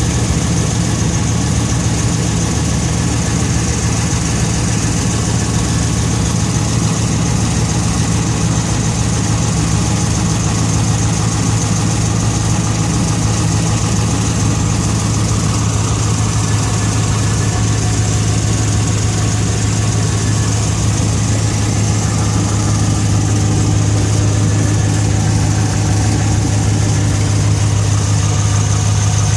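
Ram pickup's Chrysler Hemi V8 idling steadily soon after a cold start, making the start-up noise that lasts about five minutes before quieting down. The owner doesn't take it for the usual Hemi tick or a broken exhaust manifold bolt.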